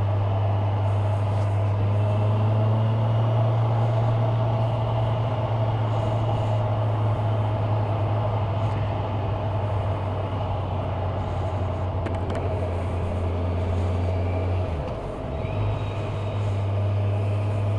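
Kawasaki Ninja 1000SX motorcycle's inline-four engine running steadily under way, with a constant low hum, and a brief dip in level about fifteen seconds in.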